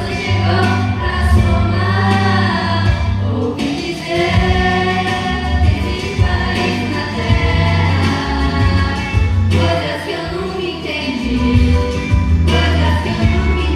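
A group of voices singing together as a choir over instrumental backing with held bass notes.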